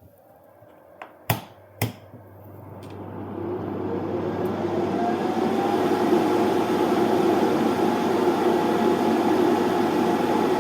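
Two sharp switch-like clicks, then a fan spinning up to a steady whirr, its whine rising in pitch over a couple of seconds, as a 1000 W load is put on the inverter.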